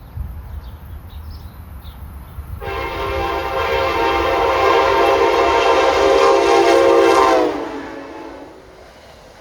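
Locomotive air horn sounding one long blast of about five seconds, starting a little over two seconds in over the low rumble of a passing train, then dropping slightly in pitch as it dies away.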